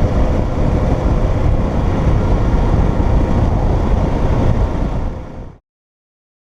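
Motorcycle on the move: steady wind rush and engine rumble at the rider's microphone, which fades and cuts to silence about five and a half seconds in.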